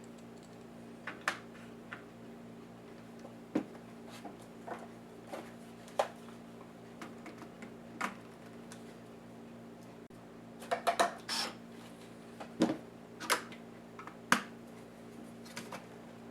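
Light clicks and taps of small tools and plastic laptop parts being handled while a Lenovo IdeaPad S10-3T netbook is taken apart, irregularly spaced, with a quick run of clicks about eleven seconds in. A steady low hum runs underneath.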